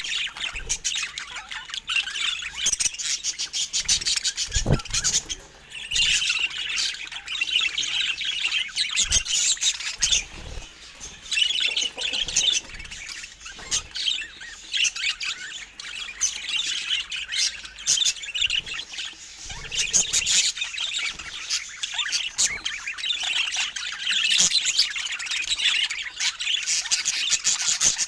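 A flock of budgies chattering and chirping continuously, with rapid warbles, squawks and clicks.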